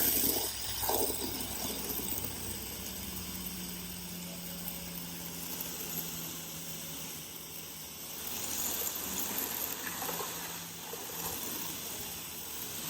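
Water from a garden hose spraying onto a pickup truck, a steady hiss.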